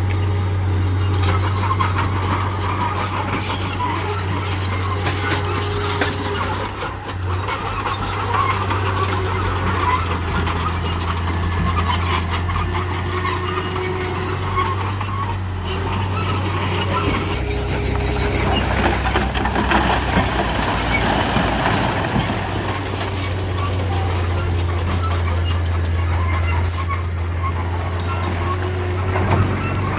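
Heavy diesel earth-moving machinery running steadily, a deep constant engine drone, with intermittent high-pitched squeaks over it.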